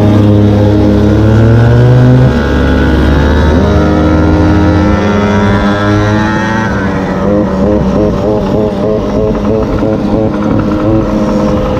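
Small two-stroke engine of a gas-powered stand-up scooter running hard at high revs. It eases off about two seconds in, winds back up for a few seconds, then drops partway through to lower, wavering, uneven revs.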